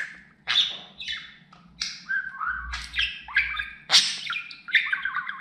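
Pet budgerigar chattering: a quick, irregular run of short chirps, squawks and warbled notes, with one sharp squawk about four seconds in.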